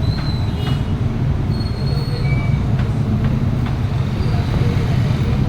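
Heavy truck in traffic: a steady low engine and road rumble, with a few brief high-pitched squeals near the start and about two seconds in.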